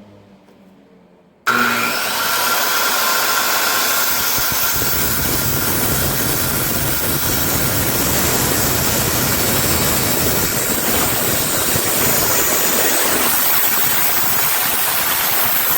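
Power sander running steadily on wood. It starts abruptly about a second and a half in, with a faint whine that soon fades under the even grinding.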